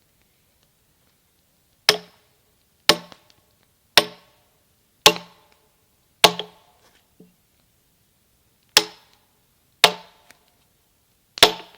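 Sledgehammer driving a steel splitting wedge into a chestnut log: eight hard strikes about a second apart, each with a short metallic ring, with a longer pause after the fifth.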